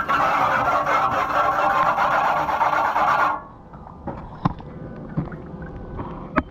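Garden hose spraying water onto an air conditioner's condenser coil, a loud steady spray that cuts off abruptly about halfway through. A few light clicks and taps follow.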